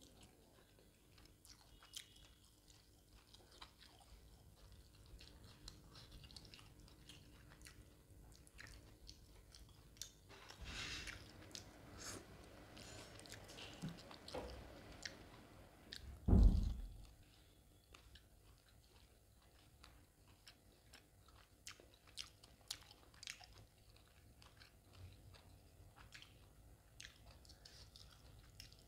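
Close-miked chewing of a mouthful of spicy mutton boti curry: soft wet mouth clicks and squelches, with some biting and crunching. A single dull thump a little past halfway is the loudest sound.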